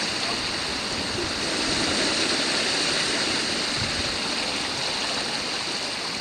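Steady rushing noise of sea waves washing over a rocky shore.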